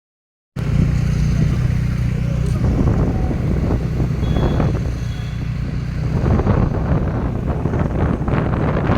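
A motor vehicle's engine running steadily with a low hum, starting about half a second in.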